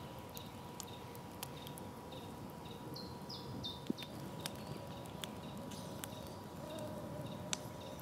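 Forest birds chirping: repeated short high calls, each sliding downward, in small groups. Faint scattered crackles from a small campfire run underneath.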